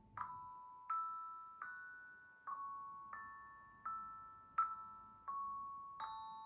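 Steel tongue drum played slowly: nine single notes struck about every 0.7 s, each ringing and fading before the next, stepping up and down a gentle melody.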